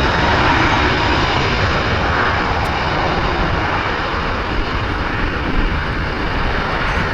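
Jet airliner passing low overhead on final approach: loud, steady jet-engine noise that eases slightly in the second half.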